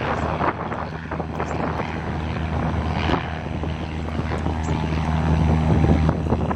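Small propeller airplane's piston engine droning at high power on its takeoff, the steady drone growing louder and then falling away near the end. Wind buffets the microphone.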